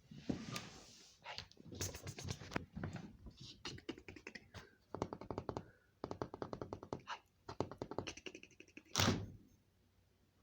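Rapid close clicks, taps and scratches on the recording phone, with one heavy thump about nine seconds in.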